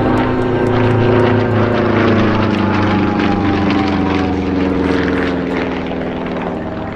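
Sukhoi Su-26MX aerobatic plane's Vedeneyev radial engine and propeller running loud during a display pass, their tone falling slowly in pitch and fading slightly near the end as the plane moves away.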